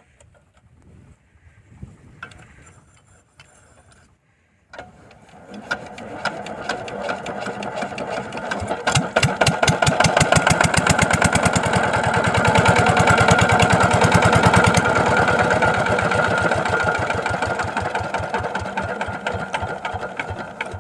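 8hp single-cylinder diesel water-pump engine starting: about five seconds in it is turned over and builds speed, then runs with a rapid, even beat. It eases off near the end.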